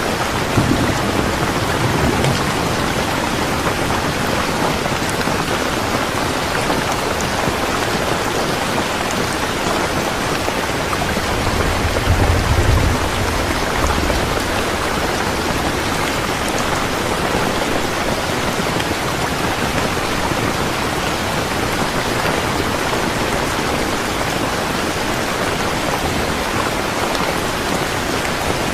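Steady rain falling and pattering on surfaces, with low rumbles of thunder about a second in and again near the middle.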